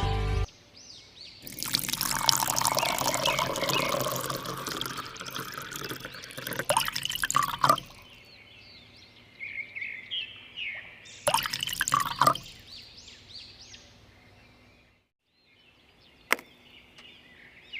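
Water pouring for several seconds, followed by a few short splashes. Birds chirp in the background.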